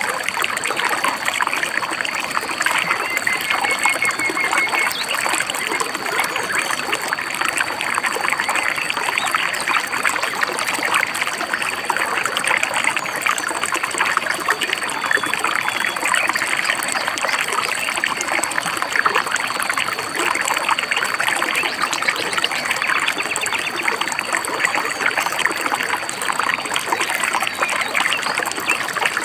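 River water babbling steadily, a constant close rush with fine splashing texture. A short bird trill sounds about three seconds in.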